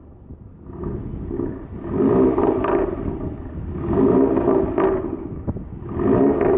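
2015 Audi A3's exhaust on an APR stage 2 pop-and-bang tune, revved three times; each rev falls away into sharp pops and crackles on the overrun.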